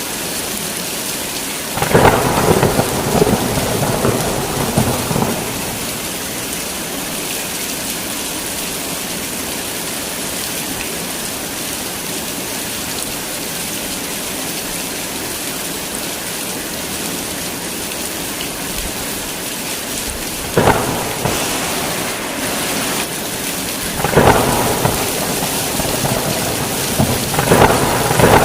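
Heavy rain falling steadily, with claps of thunder: one about two seconds in that crackles on for a few seconds, then three more in quick succession near the end.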